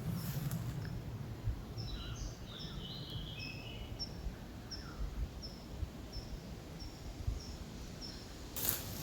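Woodland birdsong: one bird repeating a short high note about twice a second, and another bird giving a brief warbling phrase about two to three seconds in, over a low rumble. A rustle near the end.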